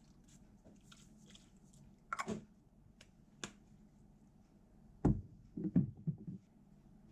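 Quiet room with soft rustles and light clicks of small objects being handled, a sharper knock about two seconds in, and a cluster of louder knocks and thuds around five to six seconds in.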